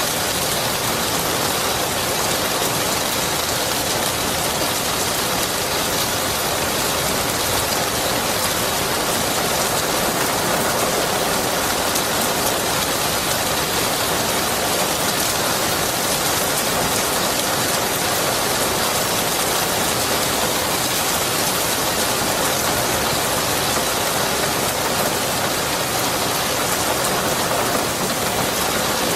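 Steady heavy rain falling and pattering on surfaces, an even hiss with no breaks.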